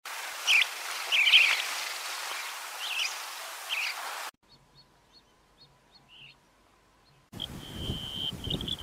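Small bird chirping in short high calls over a steady hiss. About four seconds in the sound cuts off abruptly to near silence with a few faint ticks, then returns with wind on the microphone and a held high whistle followed by chirps near the end.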